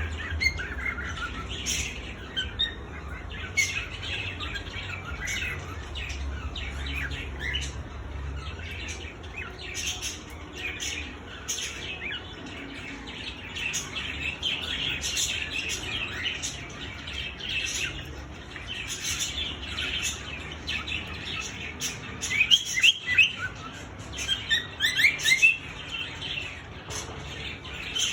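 Male cockatiel singing: a continuous run of chirps and whistles, with bursts of quick rising notes near the end.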